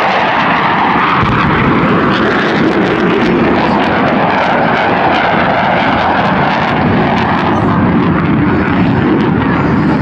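Airplane engine, loud and steady, as a plane flies its display.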